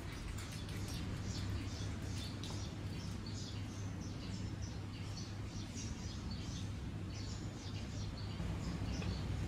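Small birds chirping, many short high chirps in quick succession, over a steady low hum.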